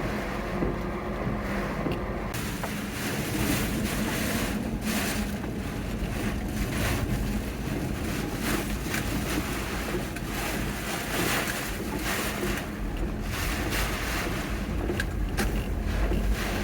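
Steady low motor hum with rushing, gusty noise from about two seconds in, like wind or water against the microphone.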